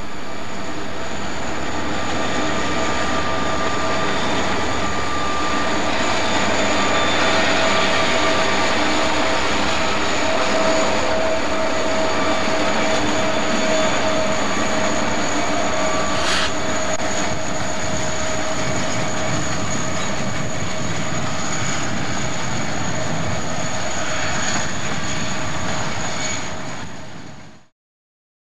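Kansas City Southern grain train rolling past, a steady noise of wheels and cars on the rail with one sharp click about halfway. The sound cuts off suddenly near the end.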